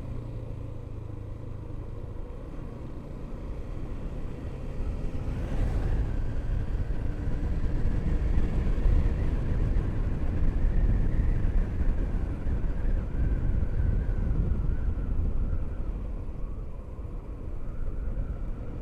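Motorcycle being ridden on the road: a steady low rumble of engine, road and wind noise, growing louder about six seconds in and easing off near the end.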